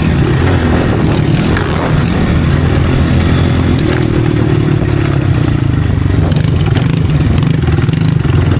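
Motocross dirt bike engine running steadily, its pitch swelling slightly and easing back in the middle.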